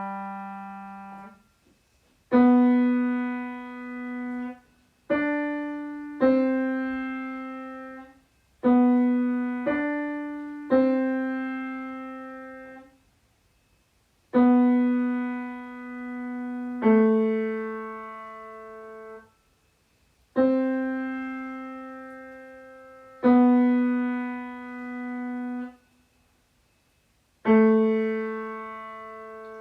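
Piano playing a slow melody one note at a time: each note is struck and rings away, in short phrases of two or three notes with brief silences between them.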